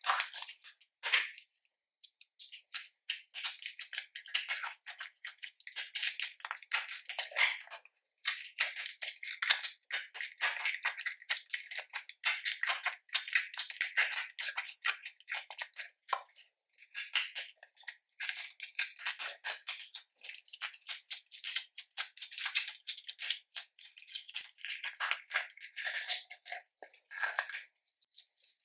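Slime being kneaded and stretched by hand, giving a dense run of small wet crackles, pops and squishes with brief pauses.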